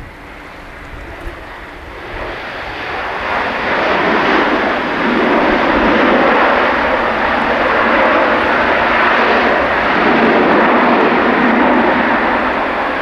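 Jet engine noise from an Airbus A300-600R airliner landing. The sound swells over the first few seconds and then stays loud and steady, easing slightly near the end.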